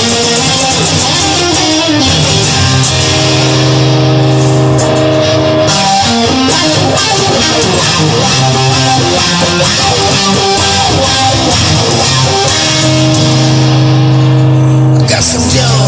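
Instrumental passage of a rock song: guitars playing sustained chords over a bass line, with no singing.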